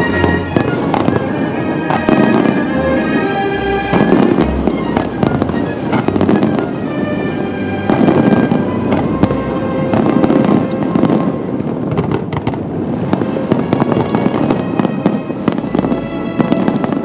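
A fireworks display in full barrage, with aerial shells bursting and crackling in quick succession. Music plays along underneath.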